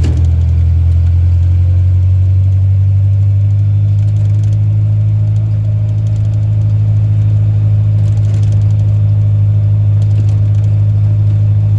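Rat rod farm truck's engine running steadily on the road, heard from inside the cab as an even, low drone.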